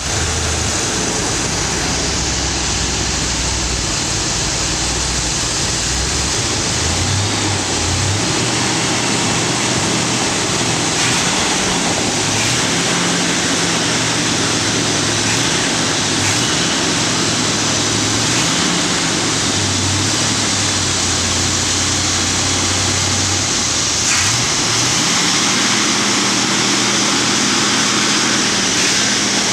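1968 Corvette Stingray's V8 running loudly, idling low for the first several seconds, then revved up and back down repeatedly, holding each higher rpm for a few seconds, with the highest and longest hold near the end.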